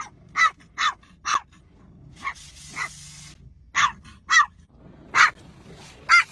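A dog barking: about ten short, high-pitched barks at an uneven pace.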